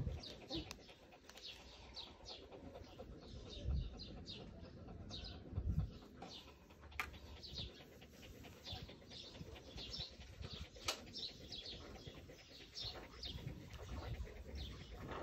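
Small birds chirping faintly in the background, many short high chirps in quick succession, with a couple of low bumps about four and six seconds in and an occasional sharp click.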